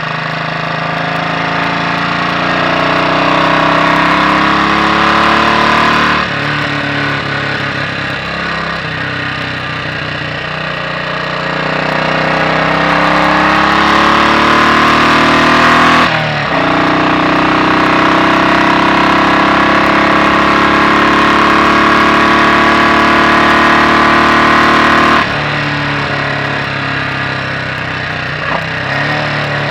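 Royal Enfield Bullet 500 single-cylinder engine under way, its inlet cam retarded one tooth: it pulls up with rising pitch, the pitch and level drop abruptly about six seconds in and again about sixteen seconds in, it holds a steady note for several seconds, then the throttle closes near the end and it settles to a lower, quieter running.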